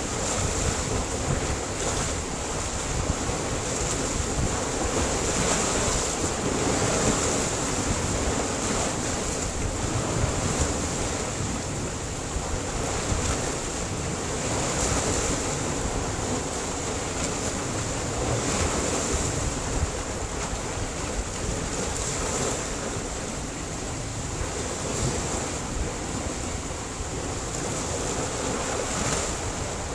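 Sea surf on a rocky shore: a steady rush of water with a wave surging in every three or four seconds.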